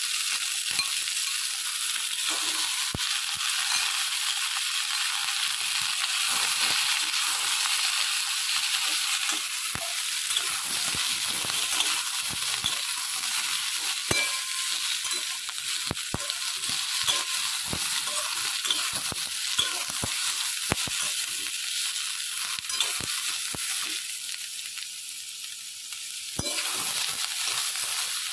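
Capsicum, tomato and soya chunks sizzling in oil in an aluminium kadai, with a metal spatula clicking and scraping against the pan as they are stirred. The sizzle dies down for a couple of seconds near the end, then picks up again.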